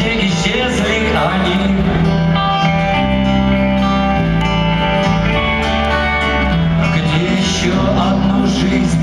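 Rock band playing live in an arena, led by guitars over a steady bass line with long held chords.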